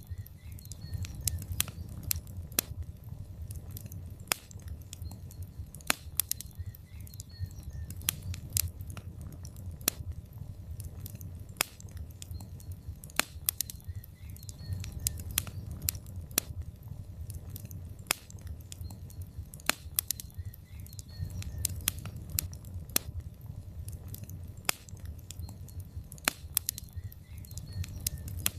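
Burning logs in a fireplace crackling: frequent irregular sharp pops and snaps over a low, steady rumble of the flames.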